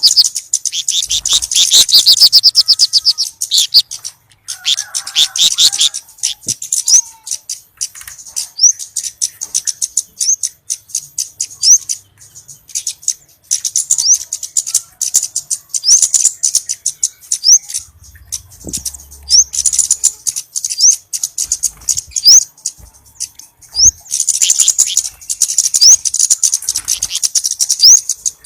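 Flowerpecker calls used as a lure: very high, thin chirps and rapid trills in repeated bursts, each note a quick upward flick, with short pauses between bursts.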